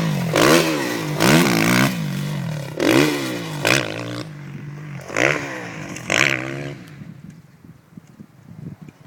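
Kawasaki KX450F four-stroke single-cylinder motocross bike engine revving hard in about six quick bursts of throttle, then fading to a low level with scattered clattering near the end.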